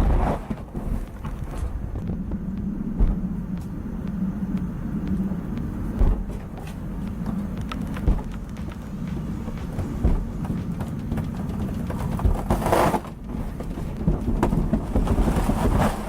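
An engine running steadily with a low rumble, with scattered sharp knocks and short bursts of rushing noise, one a little before the end and one at the end.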